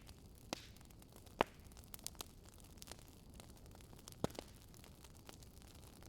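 Wood fire crackling: irregular sharp pops and snaps over a faint steady hiss, the loudest pop about a second and a half in.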